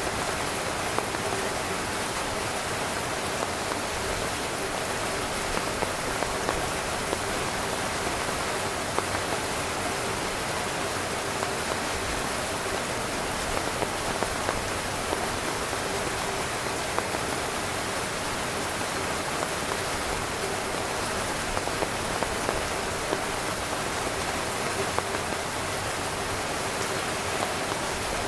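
Heavy rain pattering steadily on a tent's fabric, a dense even hiss of countless drops with small individual drop hits standing out.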